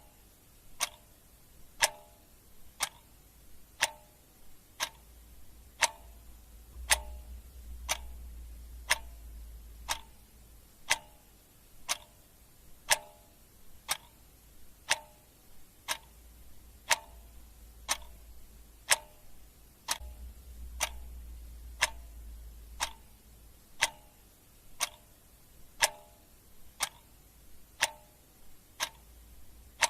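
Clock ticking steadily, one tick a second, with a faint low rumble that comes and goes underneath.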